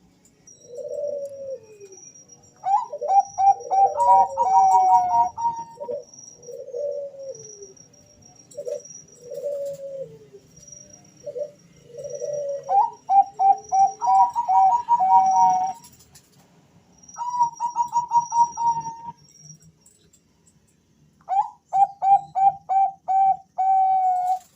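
Two male Bangkok-bred zebra doves (perkutut) cooing in answer to each other. One gives lower, drawn-out falling coos; the other answers with quick runs of higher coos in four separate phrases.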